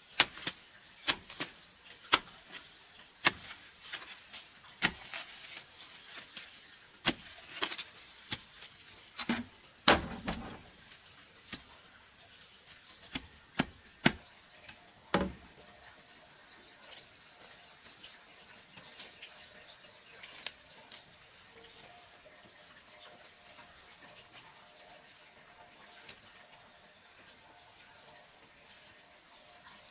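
Sharp tool strikes on wood, about a dozen, irregularly spaced roughly a second apart, stopping about halfway through. Behind them, a steady high chirring of crickets and other insects.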